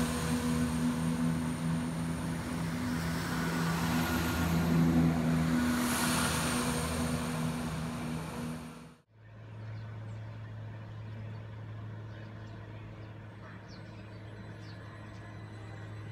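A Southern multiple-unit passenger train passes close by at speed: loud wheel and air noise over a steady low drone. It cuts off suddenly about nine seconds in and gives way to a quieter, steady low hum as a Class 377 electric multiple unit runs slowly into the platform.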